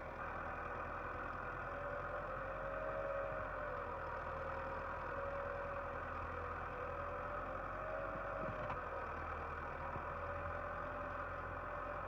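Tractor engine running steadily, its pitch wavering slightly as it works its way out of the mud.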